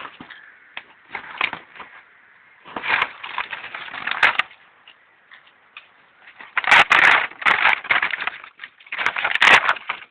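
Cardboard and dry kindling being handled to start a campfire: irregular bursts of crackly rustling and crunching, with a few sharp clicks, the loudest bursts in the second half.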